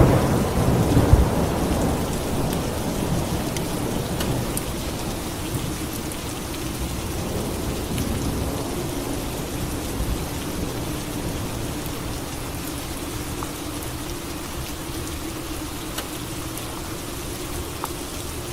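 Steady rain with a thunderclap right at the start, its rumble slowly dying away while the rain goes on.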